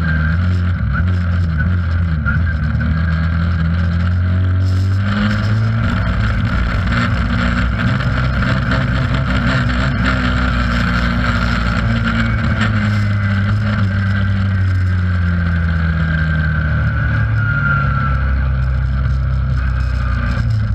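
Race car engine running hard, heard from inside the stripped, caged cabin, its note rising and falling repeatedly as the throttle changes.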